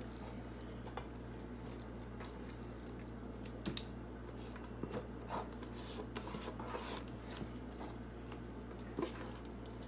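Thick, creamy buffalo chicken dip being scooped and scraped out of a bowl into a baking dish: scattered soft wet squishes and light clinks of the utensil against the dish, over a steady low hum.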